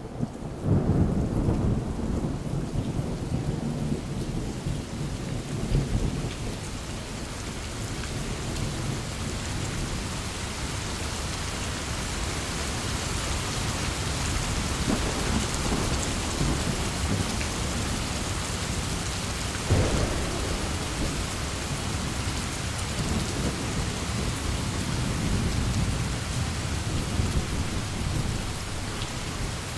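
Heavy rain falling steadily, with thunder rumbling low and strongest in the first few seconds, and a sharp thunderclap about two-thirds of the way through.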